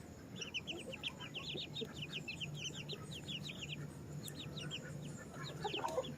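Young chicks peeping continually: many short, high, falling peeps, several a second, over a low steady hum.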